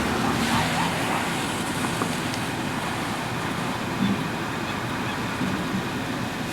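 Steady noise of a car's engine and tyres on the road as it drives slowly.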